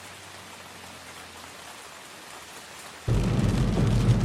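Steady rain falling. About three seconds in, a much louder rush of noise with a deep rumble cuts in suddenly.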